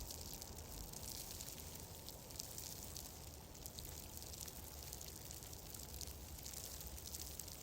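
Fireplace crackling: a steady soft hiss scattered with many small crackles, over a low rumble.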